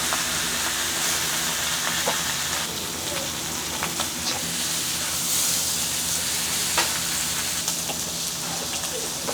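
Pork belly (samgyeopsal) sizzling steadily on a hot cast-iron pan, with scattered sharp pops and crackles of spitting fat.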